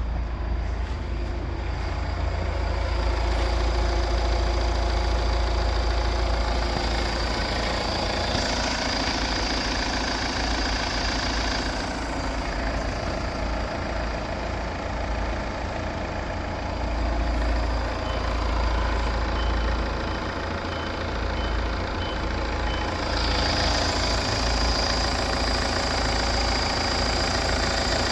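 Vehicle engine running steadily at idle during an engine test.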